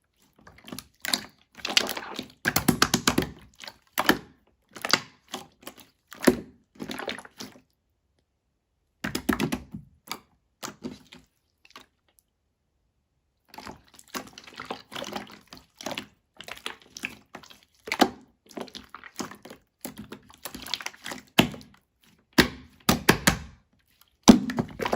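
Irregular short taps and knocks on hard objects, some in quick clusters, broken by two pauses of a couple of seconds.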